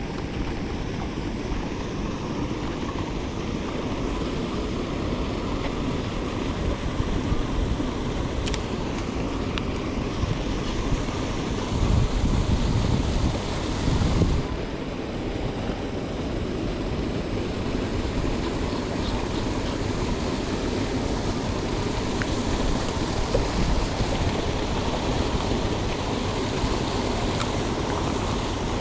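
Steady rush of seawater pouring from a harbour outflow, with wind buffeting the microphone and louder gusts of rumble about halfway through.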